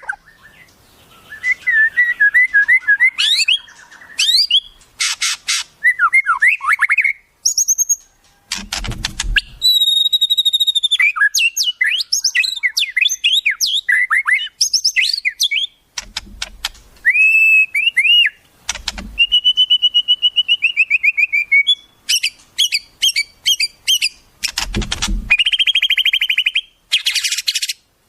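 Wild bird calls in quick succession: varied whistles, chirps and fast trills from several species, with a few harsh buzzy bursts among them. This is tutor-song material of the kind used to teach a magpie-robin new phrases.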